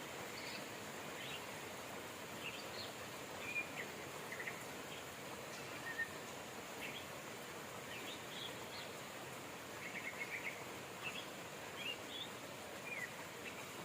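Steady rain hiss with small birds chirping throughout, short high calls every second or so.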